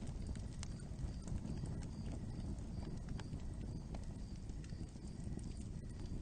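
Wood fire burning: a steady low rumble of flames with irregular crackles and pops.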